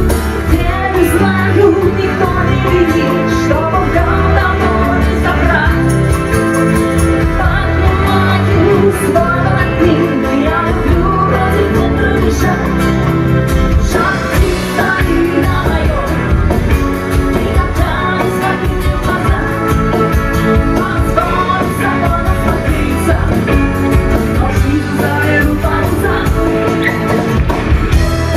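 Live rock band playing a song, with a singer's voice over guitars, bass and drums.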